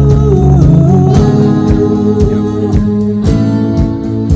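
Rock band playing an instrumental passage between sung lines: guitar over a steady beat.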